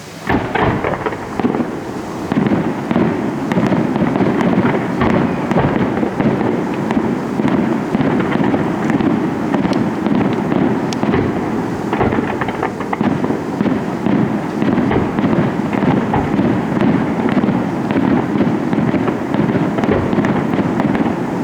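Fireworks display in full swing: a dense, continuous crackle of many rapid bangs and pops with scattered louder reports, starting suddenly and running at a steady intensity.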